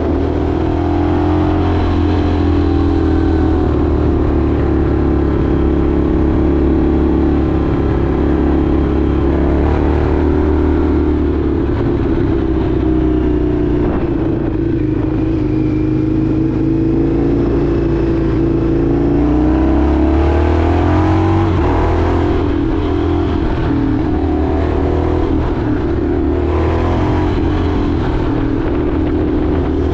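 Indian FTR 1200's V-twin engine running under way, its engine speed rising and falling gently as the motorcycle is ridden.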